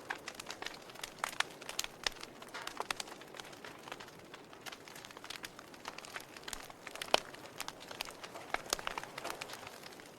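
Wood fire crackling in a fireplace: irregular sharp pops and snaps over a steady soft hiss, with one louder pop about seven seconds in.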